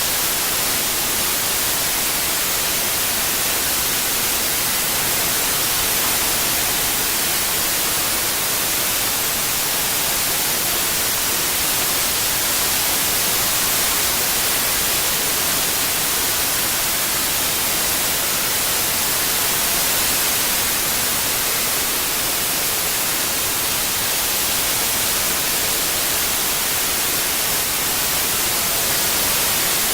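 Steady synthetic white noise: an even, unbroken hiss, brightest in the high frequencies.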